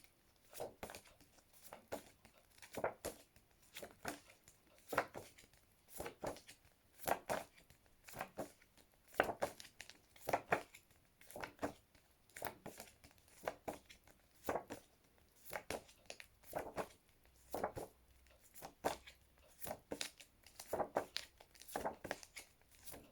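Paper flashcards being flipped over quickly one after another, a short rustling flick about once or twice a second.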